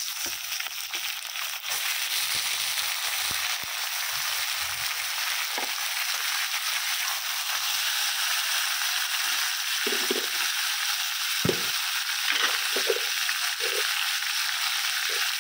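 Raw chicken pieces sizzling in hot oil with half-fried onions in a kadhai: a steady frying hiss that starts as the chicken goes in. A few short knocks and scrapes of the spatula against the pan come in the second half.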